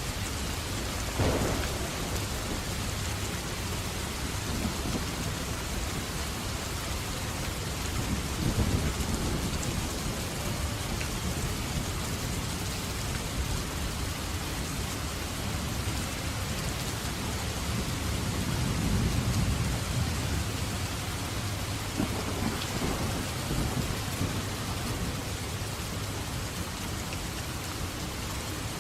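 Steady heavy rain with thunder: a sharp crack about a second in, then two long low rolling rumbles and another crack later on.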